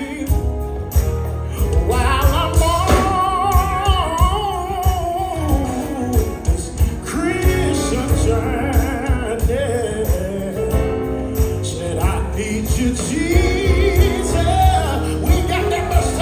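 Live gospel music: wordless sung vocal lines over bass, with percussion keeping a steady beat.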